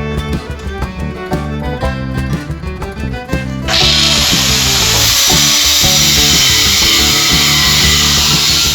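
Background music, then a power tool starts about a third of the way in with a brief rising whine and runs on with a loud, steady grinding hiss over the music.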